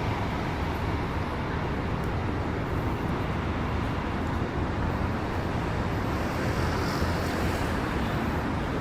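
Urban road traffic on wet streets: a steady low rumble of vehicles, with a brief louder hiss, like tyres on wet pavement, about seven seconds in.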